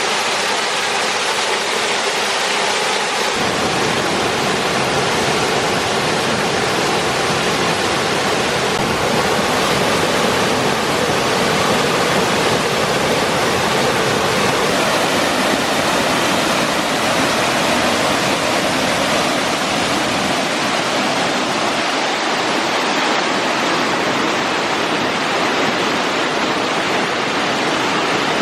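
Waterfall rushing close by: a steady, loud wash of water noise whose low rumble fills in about three seconds in.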